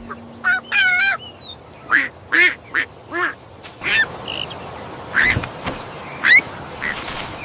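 A duck quacking in a series of short calls, with a brief low thump about five seconds in.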